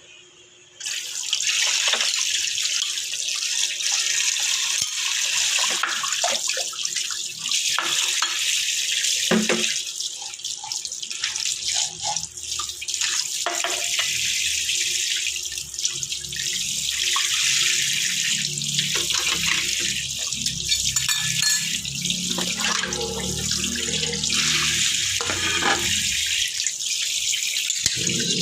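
Tap water running hard into a sink, turned on about a second in, with scattered knocks and splashes as things are handled under the stream.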